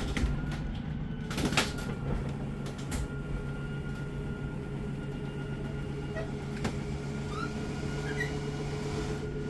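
Electric slide-out motor of a travel trailer running steadily as the slide room moves out, a steady whirring hum, with a few clicks and knocks over it.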